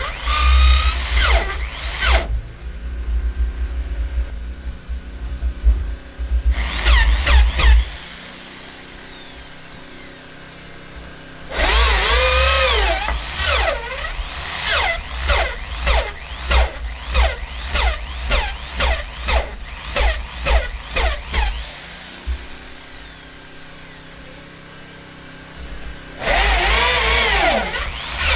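Handheld electric drill run in bursts, its motor pitch rising and falling as the trigger is squeezed and eased. A run of short, quick pulses follows, with quieter pauses between working spells.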